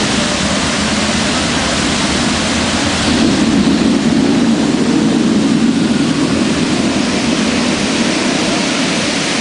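The Mirage's man-made volcano attraction erupting: a loud, steady rushing roar that swells with a deeper rumble about three seconds in and eases back after about six seconds.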